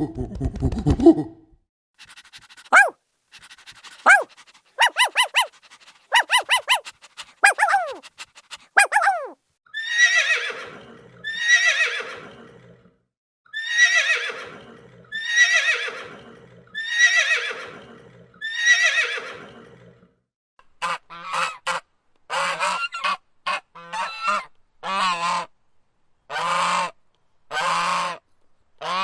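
A run of animal calls: short, high, falling bird calls, then six long falling calls at even spacing, then a goose honking repeatedly over the last several seconds.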